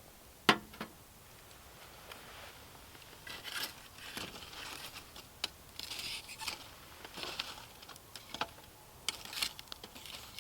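A sharp knock about half a second in, then scattered clicks and rustling of things being handled.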